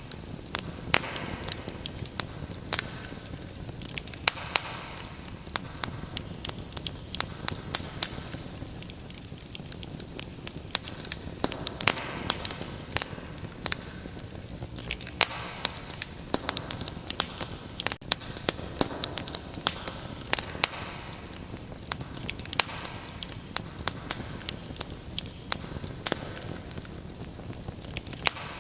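Wood fire crackling: irregular sharp pops and snaps over a steady low hiss of burning.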